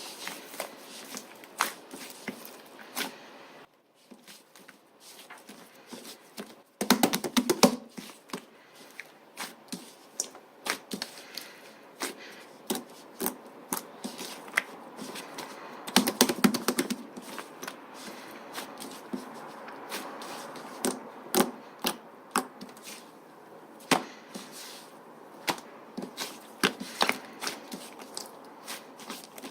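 Soft slime being squished and pressed by hand, making many sharp, irregular clicking pops, with dense flurries of pops about seven seconds in and again around sixteen seconds.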